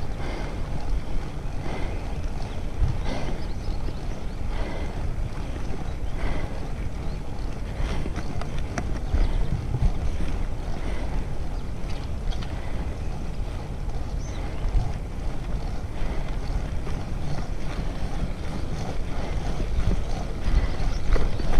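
Wind buffeting the microphone of a camera on a moving bicycle, a steady low rumble with faint ticks every second or two.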